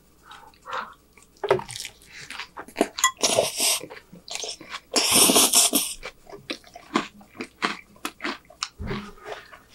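Close-miked chewing of a mouthful of Caesar salad: wet mouth clicks and smacks with crunching, and two longer, louder noisy stretches about three and five seconds in.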